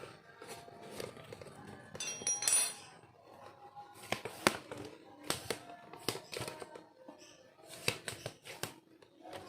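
Metal clicks, taps and knocks from hand work on an opened refrigerator compressor's piston and cylinder block, where the piston is stuck. A brief high ringing scrape about two seconds in is the loudest sound.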